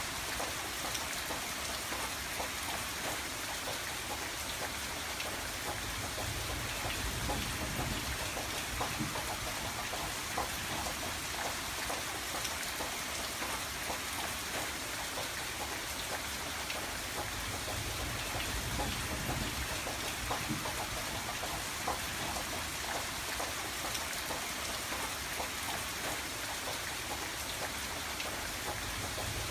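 Steady rain on a window: an even hiss of rainfall with many small drop ticks, and a soft low rumble that swells and fades now and then.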